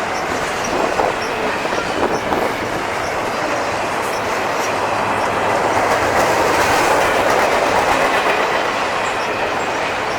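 Cars of a CSX double-stack intermodal freight train rolling past, steel wheels clicking over the rail joints, the rolling noise swelling louder about six to eight seconds in.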